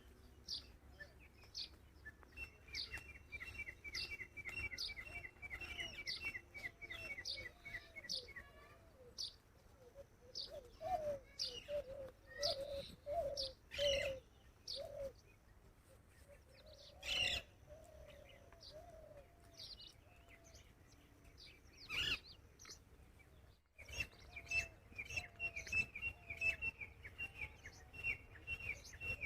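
Several birds calling together: one gives a fast, rattling run of repeated high chirps, others give short, falling high notes again and again, and lower calls come through in the middle. A short break in the sound comes about three-quarters of the way through.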